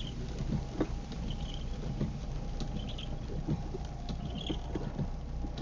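Inside a moving car on a wet road: a steady low engine and road rumble, with scattered light taps of water and a faint short sound recurring about every second and a half.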